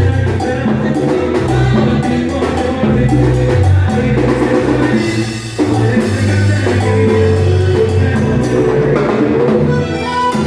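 Latin dance-band music, salsa style, with a bass line, drum kit and percussion under pitched instruments.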